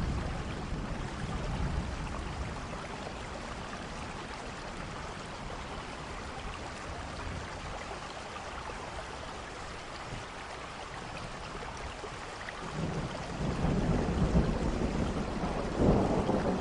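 Steady rain falling, with a low roll of thunder building about three-quarters of the way through and growing louder near the end.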